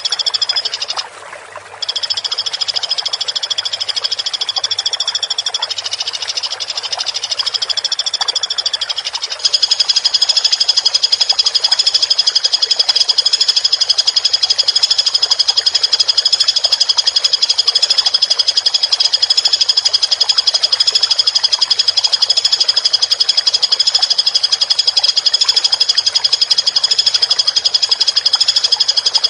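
Recorded woodpecker song: a continuous, rapid, high-pitched trill that drops out briefly about a second in and steps up louder about nine seconds in.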